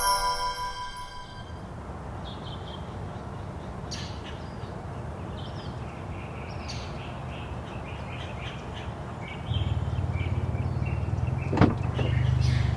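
Birds chirping over a low steady rumble. About nine seconds in, a louder low drone like a running vehicle engine starts, with a couple of sharp knocks near the end.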